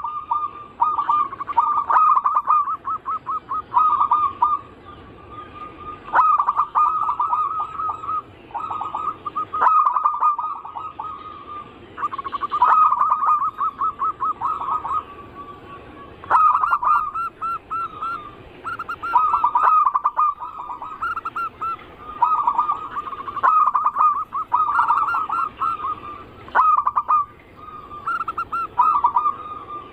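Zebra doves (perkutut) cooing: repeated phrases of quick, rhythmic staccato notes, each a few seconds long with short gaps between, the song used as a lure call to draw other zebra doves.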